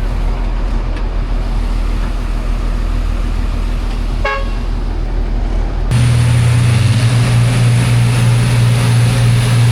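Heavy off-road truck engine running steadily, with a short horn toot about four seconds in. Near six seconds the sound jumps abruptly to a louder, steady engine drone.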